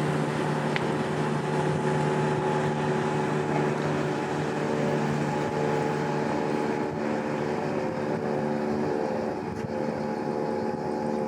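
A boat's engine running steadily: a constant drone with a hum of several steady tones over a rushing noise, the lowest tone fading out about halfway.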